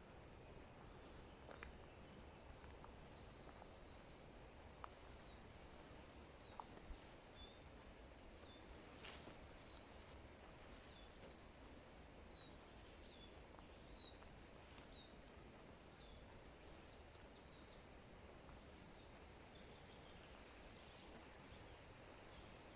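Faint forest ambience with a small songbird giving short, high chirps again and again, about one a second, for much of the time, with a brief trill a little past the middle. A few faint clicks occur in the first third.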